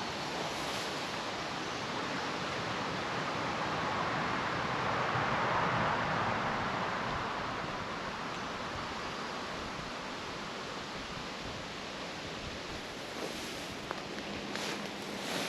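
A vehicle passing on a nearby road: a rushing tyre noise that swells to its loudest about five or six seconds in, then slowly fades.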